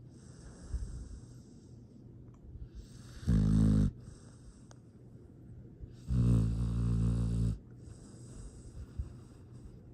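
A sleeping dog snoring: two loud snores about three seconds apart, the first short and the second longer.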